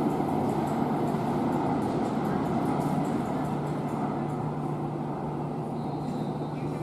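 LA Metro rail train running, a steady rumble with a low hum underneath that slowly gets quieter.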